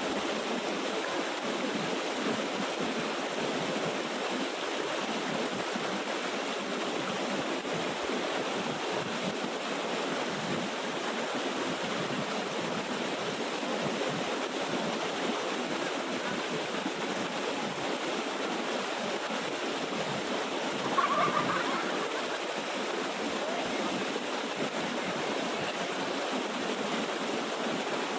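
Small waterfall and its stream rushing steadily over rocks. A short, brief louder sound cuts in about three-quarters of the way through.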